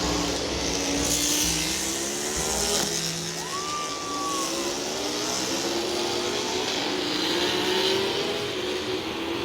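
Racing motorcycle engines running at the circuit, several at once, their pitch sliding up and down as the bikes pass and change speed. A short higher-pitched whine rises and levels off about three and a half seconds in.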